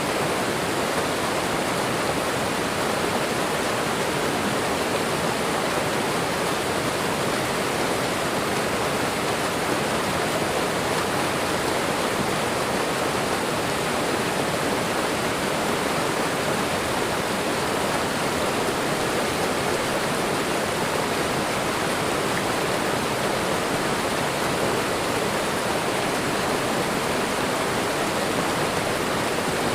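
Waterfall and running water: a steady, even rush of falling water.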